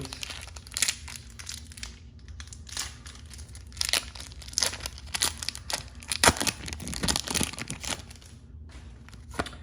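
Foil wrapper of a Pokémon card booster pack being torn open and crinkled in the hands, a dense run of irregular crackles.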